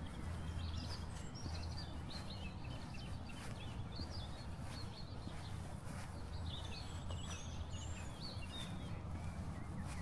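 Small songbirds chirping and twittering on and off, over a steady low hum.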